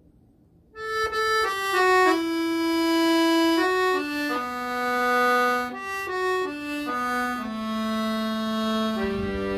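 Accordion playing a slow melody: single held notes, some up to about two seconds long, starting about a second in after a brief silence. Near the end, lower sustained backing notes join in beneath the melody.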